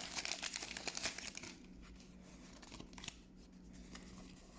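Foil Pokémon booster pack wrapper being torn open and crinkled, a dense crackle for about the first second and a half, then only a few faint rustles.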